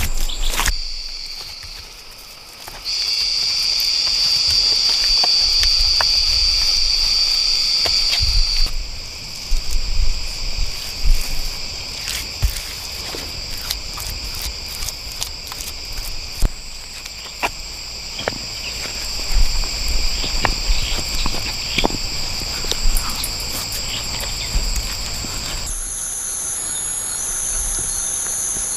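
Steady high-pitched insect chorus buzzing, its pitch and loudness shifting abruptly several times, with scattered short knocks and taps.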